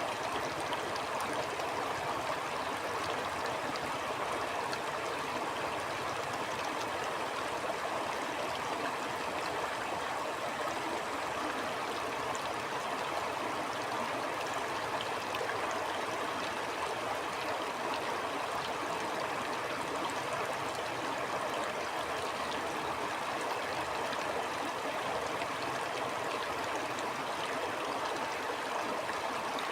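A stream flowing steadily: an even rush of running water with faint fine ticks through it.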